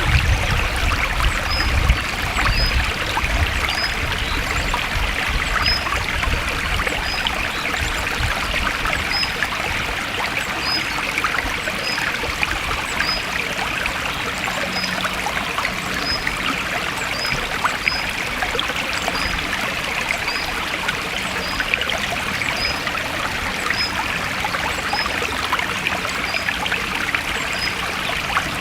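A forest stream flowing and trickling steadily. A faint high chirp repeats about once a second over the water.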